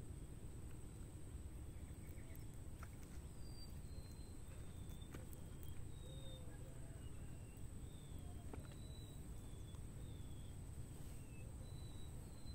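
Wild birds calling in short, thin whistled notes, some sliding in pitch, about one a second, over a steady high-pitched tone and a low outdoor rumble, with a few faint clicks.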